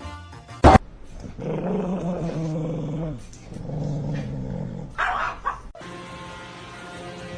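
A sharp click, then a dog growling in two long stretches, the second rising and falling in pitch, followed by a short bark about five seconds in. Background music takes over near the end.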